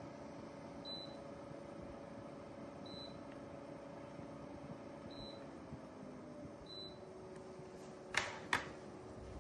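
Small portable evaporative air cooler's fan running with a steady hum that drops in pitch about two-thirds of the way through, and four short high electronic beeps about two seconds apart. Two sharp clicks close together near the end are the loudest sounds.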